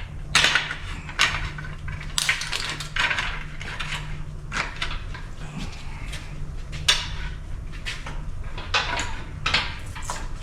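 Metal hand tools clinking, knocking and scraping against the parts of a big-block engine being taken apart, in irregular sharp strikes. A steady low hum runs underneath.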